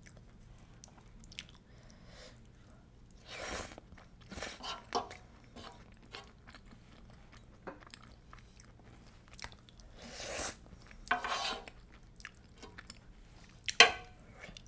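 A person eating creamy shrimp penne pasta close to the microphone: soft, wet chewing and mouth sounds in scattered short bursts, the loudest near the end as a forkful goes into the mouth.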